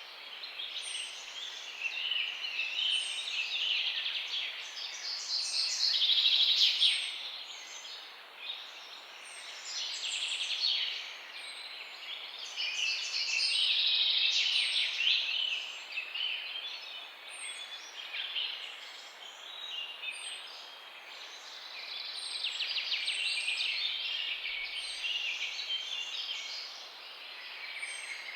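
Several songbirds chirping and trilling at once in a dense chorus that swells and fades every few seconds, with one thin, high note repeated every second or two above it.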